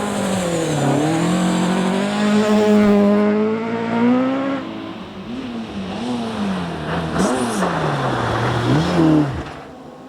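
Rally car engine under hard throttle, its pitch held high for a few seconds, then rising and falling several times with gear changes and lifts off the throttle, and dropping away near the end.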